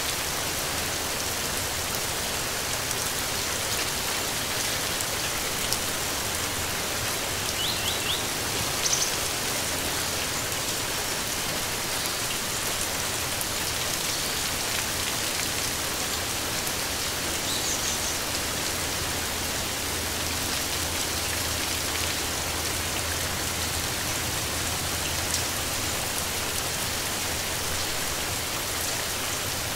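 Steady rain falling, an even hiss of drops, with a few short, faint high bird chirps a handful of times over it.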